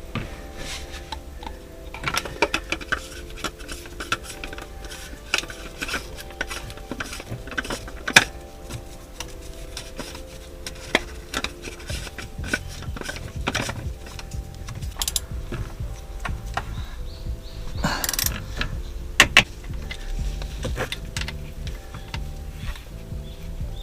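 Irregular clicks, taps and knocks of hand tools and metal and plastic parts being handled during an engine oil filter change, with a few sharper knocks, the loudest about eight seconds in. Quiet background music plays underneath.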